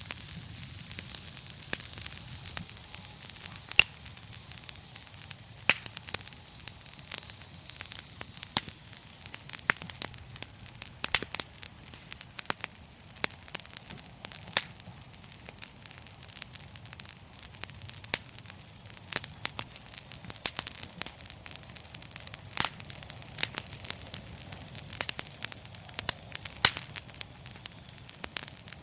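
Fire in a fireplace crackling: irregular sharp pops, several a second, over a steady hiss and low rumble of the flames.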